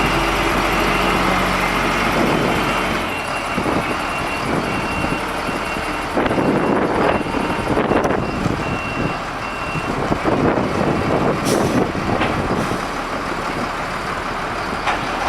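Self-loading concrete mixer truck running, with its reversing alarm beeping at a steady rate until about ten seconds in.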